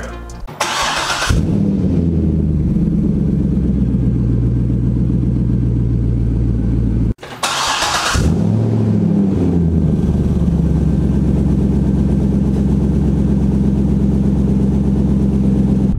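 Chevrolet C6 Corvette LS V8 cold-started twice: each time a short burst of cranking and catching, then the engine settles into a steady cold idle. After the second start the engine note rises and falls briefly before it evens out.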